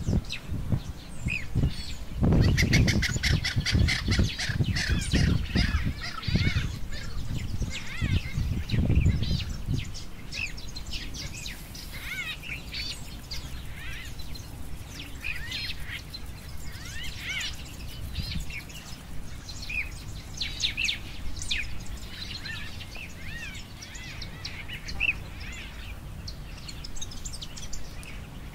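Wild birds chirping and calling, many short rising and falling calls overlapping one another. A louder low rumble sits underneath for the first ten seconds or so, then stops.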